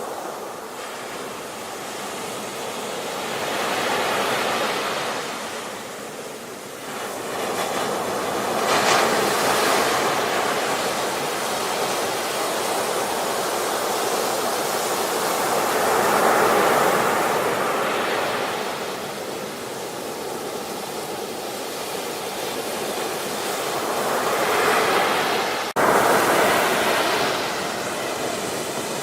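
Ocean waves breaking and washing in, the surf swelling and ebbing in several slow surges. Near the end the sound drops out for an instant and resumes louder.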